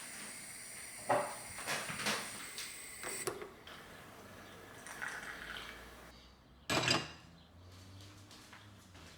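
Kitchen handling clatter: a series of separate knocks and clinks of pots, utensils and a cupboard or drawer, with the loudest knock about seven seconds in.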